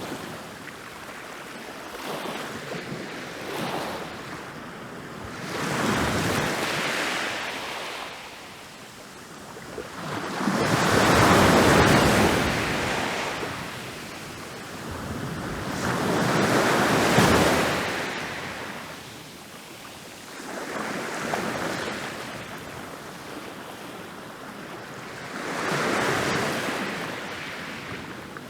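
Ocean waves rolling in and breaking on a beach, one after another about every five seconds, each swelling to a rush of surf and then fading. The loudest breaks come about a third and two thirds of the way through.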